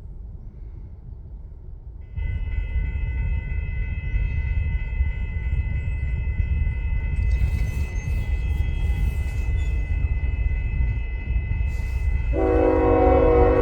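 Union Pacific freight locomotive's air horn sounding over a low rumble, starting about two seconds in and held long. Near the end the horn becomes much louder and fuller, with lower notes added to the chord.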